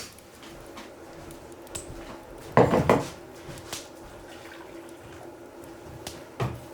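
Dishes and cutlery being handled during clean-up after a meal: a louder clatter about two and a half seconds in and a shorter knock near the end, with a few light clicks between, over a faint steady hum.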